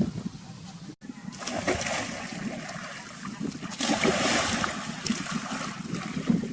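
Water splashing and sloshing, a rough noisy wash with small clicks, loudest past the middle, after a brief break about a second in.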